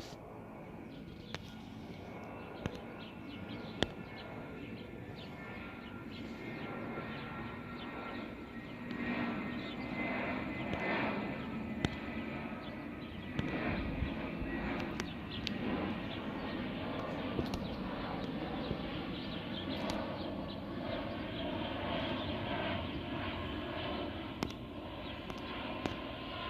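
Airbus A320's jet engines running at go-around thrust, their rushing noise and fan whine growing louder over the first ten seconds or so and then holding steady. Occasional sharp clicks sound over it.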